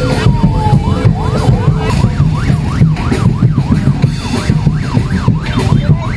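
A siren-like tone yelping rapidly up and down, about three sweeps a second, over a loud, dense low rumble.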